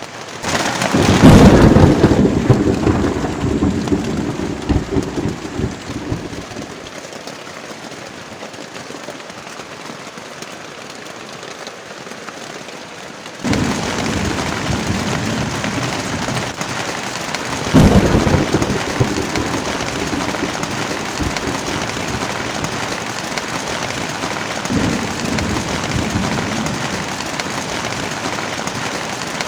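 Heavy rain with thunder. A loud clap about a second in rolls off over several seconds, the rain grows louder about halfway through, another clap follows shortly after, and a weaker rumble comes near the end.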